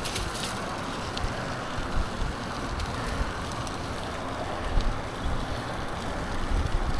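Wind buffeting the microphone of a bicycle being ridden over a slushy road, with steady tyre and road noise and a few light clicks.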